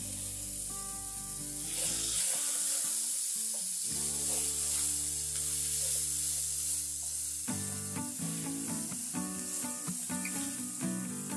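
Diced linguiça sausage and chopped onion sizzling in a frying pan with olive oil while a spatula stirs them, over soft background music.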